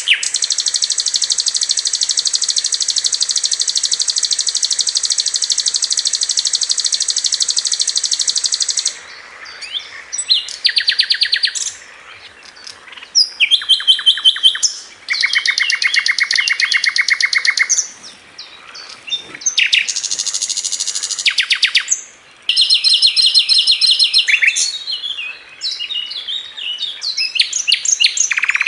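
Sikatan londo flycatcher singing rapid, high-pitched trills ('tembakan'). One long trill runs for about nine seconds, then several shorter trilled phrases follow with brief pauses between them.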